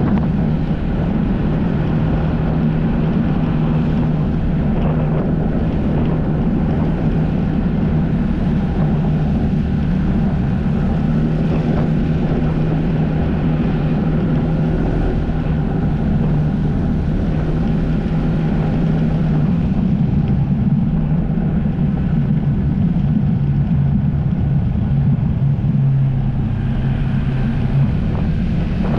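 Jet ski engine running steadily at an even speed, with water and wind noise over it.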